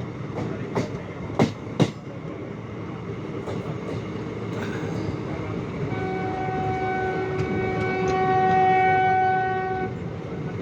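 Train running on the track, heard from aboard: a few sharp wheel clacks over rail joints in the first two seconds, then a train horn sounding one long steady note for about four seconds, starting about six seconds in.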